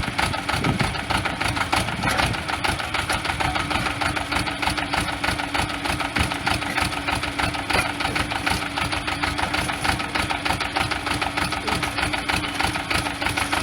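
Diesel engine of a Sonalika DI-30 tractor with a loader-backhoe attachment running steadily, with a fast even knock of firing pulses; a steady hum joins about three seconds in.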